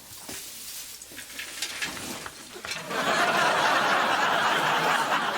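Audience laughter, swelling into a much louder, dense wash of sound about three seconds in.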